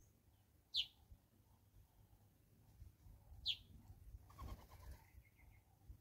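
A bird gives two short, sharp whistled calls that fall quickly in pitch, about three seconds apart. A brief rustle follows the second call.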